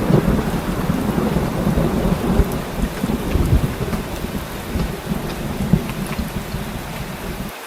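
Heavy rain falling steadily, with a low, rolling rumble of thunder that slowly eases off; the deep rumble drops away suddenly just before the end.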